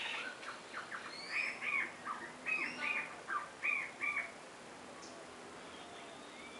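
A bird calling in a quick run of about a dozen short notes, each rising and falling in pitch, which stops about four seconds in.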